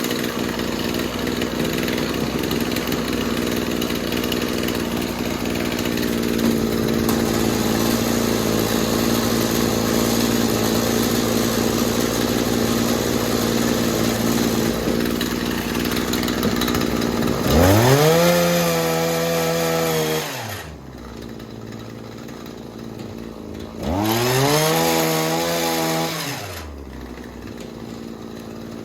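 Shindaiwa hedge trimmer's small two-stroke engine running steadily, then revved up twice. Each time it rises in pitch, holds for a couple of seconds and drops back to a quieter idle. It is running well after its fuel-line and primer-bulb repair.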